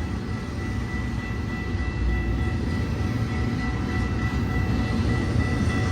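Eastbound BNSF intermodal freight train rolling past: a steady low rumble of wheels on rail, with a faint, steady high-pitched whine over it.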